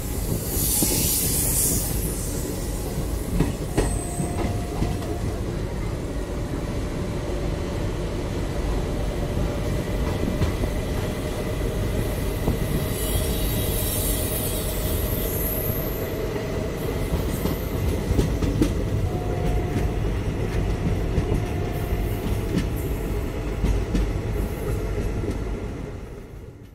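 Indian Railways passenger train running, heard from on board as it pulls away: a steady rumble of wheels on rail and running gear, with brief high wheel squeals, fading out at the end.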